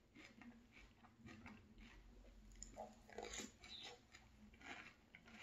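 Faint close-up chewing and crunching of a mouthful of Strawberry Milkshake Frosted Flakes cereal in milk: irregular small crackles, loudest about three seconds in.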